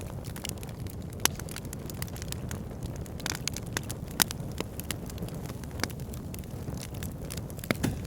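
Wood fire burning in a fire pit, crackling with many small irregular snaps and a few sharper pops, the loudest about a second in and about four seconds in, over a steady low rumble.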